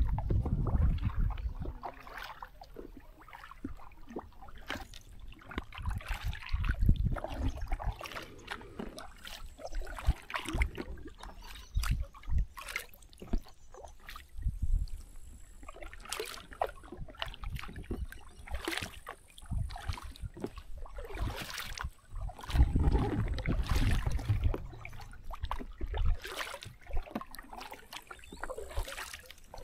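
Paddle strokes splashing and dripping in river water, coming irregularly every second or two, with bouts of low rumbling in between.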